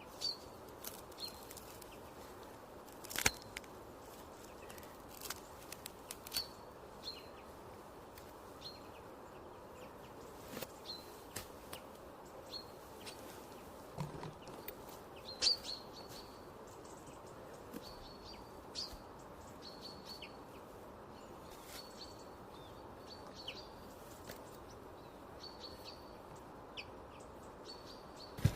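A small bird chirping, one short high call every second or two, over a steady faint outdoor hiss, with scattered sharp clicks and snaps.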